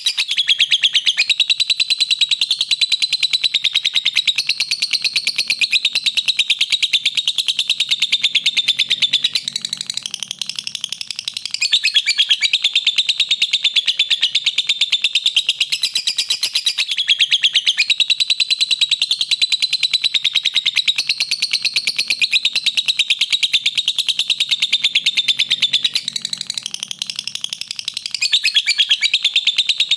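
Lovebird singing in a long, unbroken stream of rapid high chirps, the shrill chattering song used as a training 'master' for lovebirds. It softens briefly about ten seconds in and again near the end, then returns at full strength.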